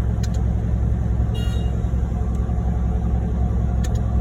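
Heavy diesel truck engine idling with a steady low rumble, with a short high beep about a second and a half in.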